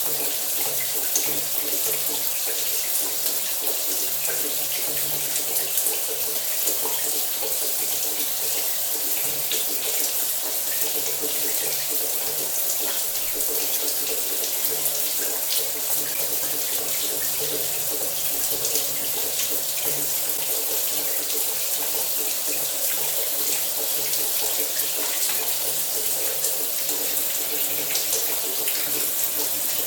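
Shower water running steadily, an even hiss of spray splashing down.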